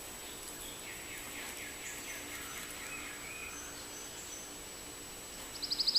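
Distant wild birds chirping over a quiet outdoor background, with a quick run of chirps about a second in. Near the end a loud, rapid buzzing trill starts.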